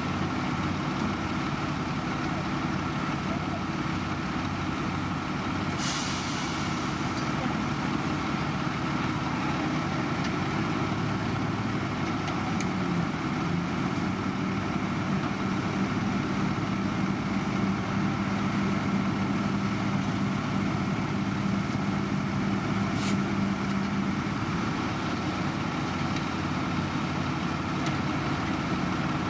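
Heavy diesel construction machinery running steadily. A short hiss comes about six seconds in, an engine note rises slightly and holds for about ten seconds, and there is a single sharp click later on.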